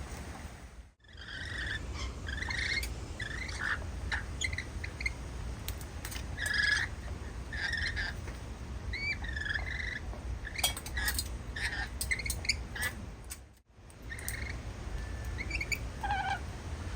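Small birds chirping and calling in short notes, scattered throughout, over a steady low rumble. The sound drops out briefly twice: about a second in and again late on.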